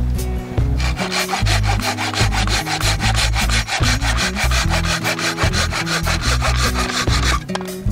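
A saw cutting through driftwood in fast, even back-and-forth strokes, starting about a second in and stopping shortly before the end. Background music plays underneath.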